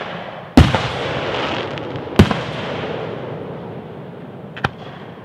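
Aerial fireworks shells bursting: two loud bangs about a second and a half apart, the first followed by a long fading echo, and a smaller bang near the end.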